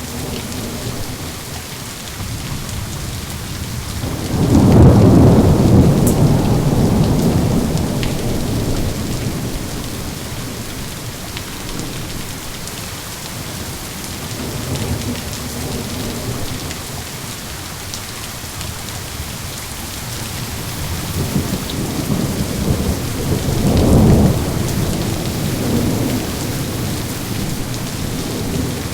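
Steady rain hissing, with rolls of thunder: a loud low rumble about four seconds in that fades slowly, a fainter one in the middle, and another swelling to a peak near the end.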